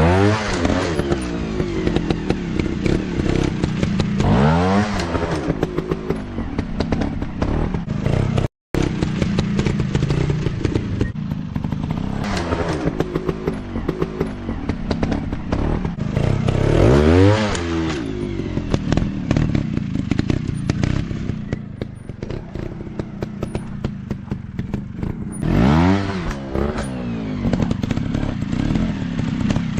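Four-stroke trail bike engines revving up and falling back again and again, with clatter and knocks from riding over rough ground. The sound drops out briefly about a third of the way in.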